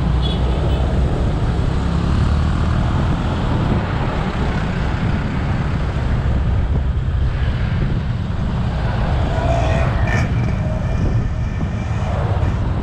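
Motorcycle engine running steadily under way, with road and wind noise over it. A brief higher-pitched tone sounds about ten seconds in.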